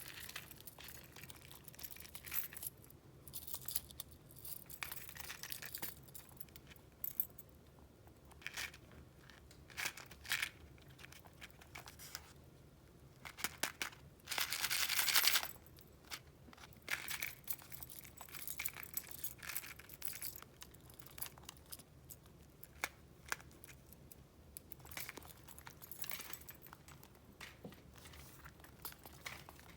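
Paper rustling and crinkling as sheets are handled and flipped through, in short irregular bursts, with a longer, louder rustle about fifteen seconds in.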